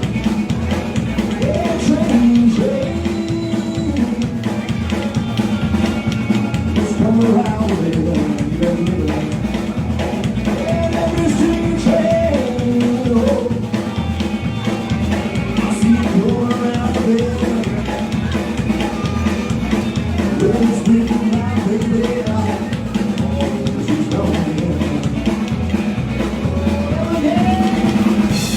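Live blues and rockabilly trio playing: electric guitar, bass guitar and drum kit, with a melodic line wandering over a steady drum beat and bass.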